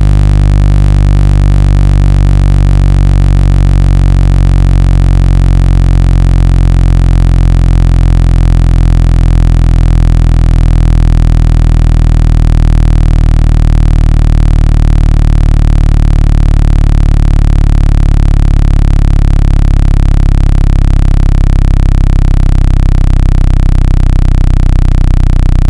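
Loud, steady, low-pitched buzzing electronic tone played as a speaker-cleaning sound, meant to shake the speaker membrane so that trapped water and dust are pushed out of the grill.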